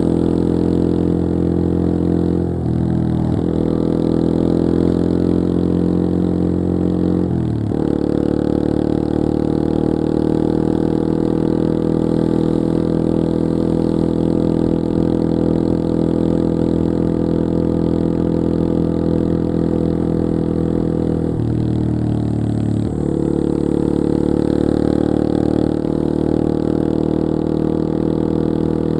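Yamaha XT225 Serow's single-cylinder four-stroke engine running under way. Its note holds steady but dips and changes pitch briefly about three seconds in, again near eight seconds, and for a second or so around twenty-two seconds, as the revs change.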